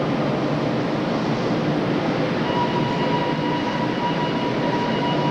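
A New York City subway work train made up of R22 and R30 work motors running through an underground station with a steady rumble, a high steady whine joining about halfway through.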